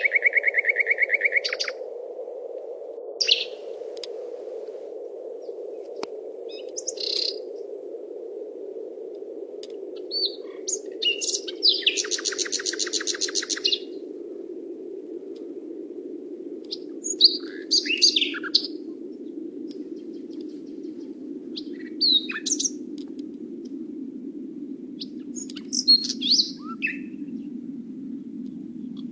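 Birds chirping and calling in short bursts, with a fast trill at the start and a longer rapid trill in the middle, over a steady low hum that slowly drops in pitch.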